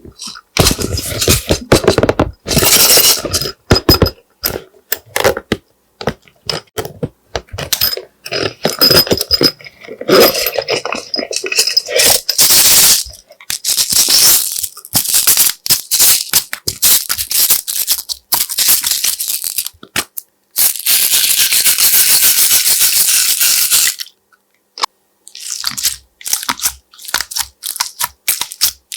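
Slime being worked by hand, with rapid irregular crackling, popping and squelching. Near the end a steady rustling stretch lasts about three seconds.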